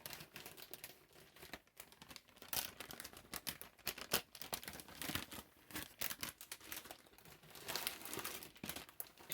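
Sticky clear-glue slime being handled and pulled apart, giving a run of irregular wet crackles and little sticky pops.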